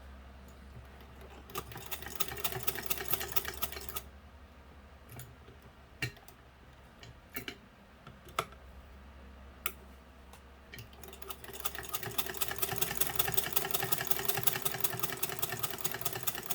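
Hand-cranked 1909 Singer 115 sewing machine stitching: rapid, even clicking of the needle and shuttle mechanism in a short run about two seconds in, a pause with a few single clicks, then a longer run from about eleven seconds until near the end.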